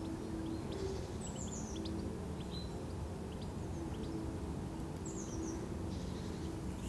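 Small birds chirping, with several quick high chirps and two short descending runs about a second in and again about five seconds in, over a steady low outdoor rumble.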